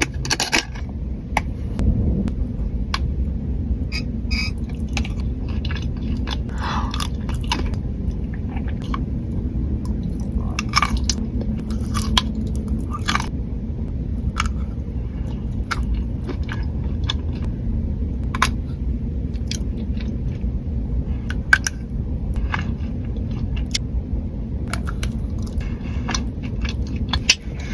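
Close-up chewing of pistachio chocolate, with many small crunches and mouth clicks scattered throughout, over a steady low rumble.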